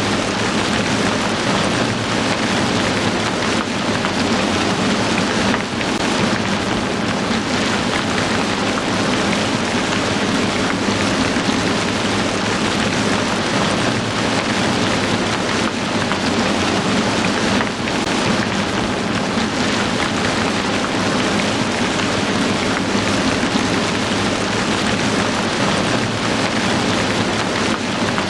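Heavy rain falling steadily, a dense, even hiss of rain on surfaces with no letup.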